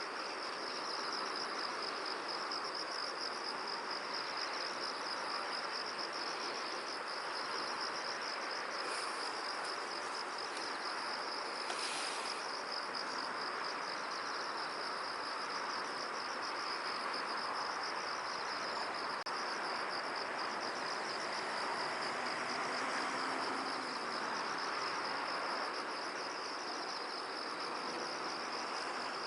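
Insects trilling continuously, a high, rapidly pulsing chirr, over a steady hiss of wind across a field. A short, brighter rustle comes about twelve seconds in.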